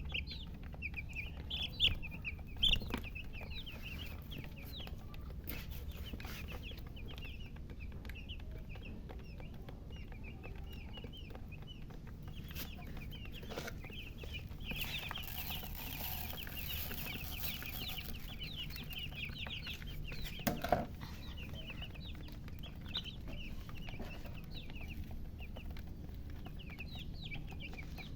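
A brood of baby chicks peeping nonstop, with many short high chirps overlapping. About twenty seconds in, a lower, louder call from a hen stands out.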